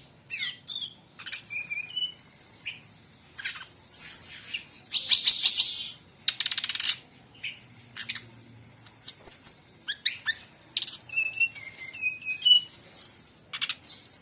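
Brown-chested jungle flycatcher singing busily, mixed with other birds' calls: quick sharp chirps, short whistles and two buzzy trills about halfway through, over a steady high thin trill that breaks off now and then.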